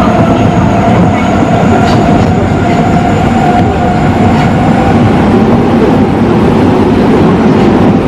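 Osaka Metro 23 series subway train running at speed through the tunnel: a steady rumble of wheels on rail, with a whine from the traction motors under the GTO-thyristor inverter drive and a few faint rail-joint clicks.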